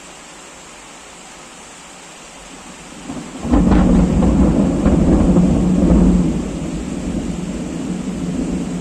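Heavy rain falling steadily, then a loud thunderclap breaks in about three and a half seconds in, with sharp cracks and a deep rumble that eases after a few seconds into a lower rumble under the rain.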